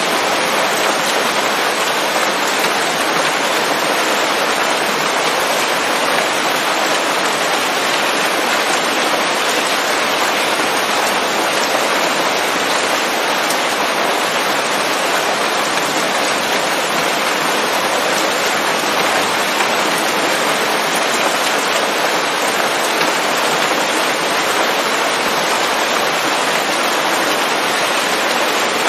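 Steady rain falling on leaves: an even, unbroken hiss with no thunder.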